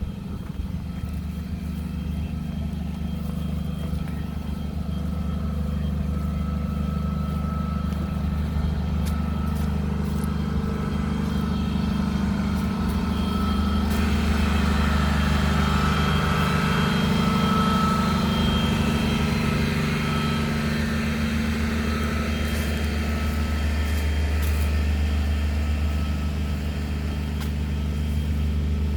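Vehicle engine running steadily: a constant low hum with a thin high whine above it, a little louder in the middle.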